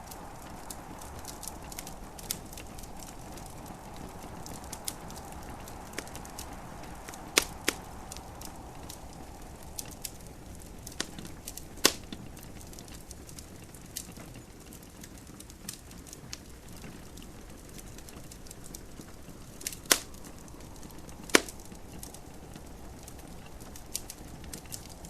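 Wood fire in a fireplace crackling, with irregular sharp pops, a few of them loud, over a steady soft hiss of gentle rain.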